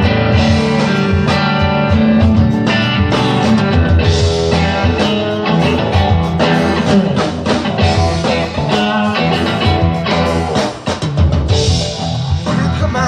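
Live rock band playing a song: guitars over a drum kit.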